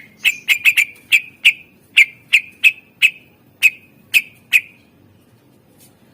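Cucak ijo (green leafbird) singing a quick series of about a dozen sharp, clipped, whistled notes over four and a half seconds, then falling silent.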